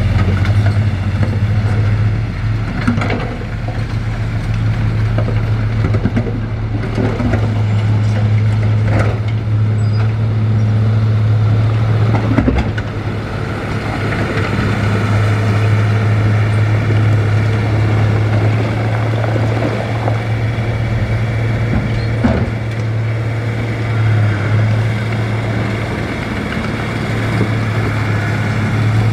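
A bulldozer's diesel engine runs steadily with a constant low drone, and a few sharp knocks stand out here and there.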